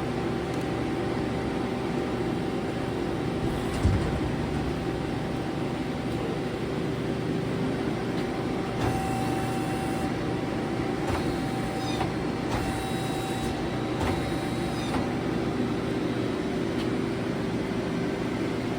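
Leadwell LTC-20BM CNC lathe under power with a steady hum while its Z axis is jogged. The axis drive adds a higher whine in stretches at about 9–10 s and 12.5–15 s, and there is a single knock about 4 s in.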